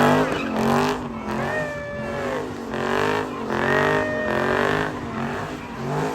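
A car engine revving up and down in repeated swells, with tires squealing at times, as a car slides around.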